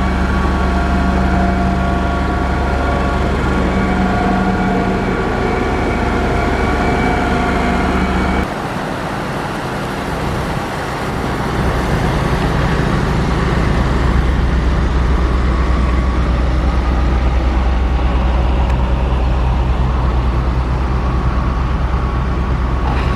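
Motor grader's diesel engine running steadily under load. The sound changes abruptly about eight seconds in, then grows louder again a few seconds later.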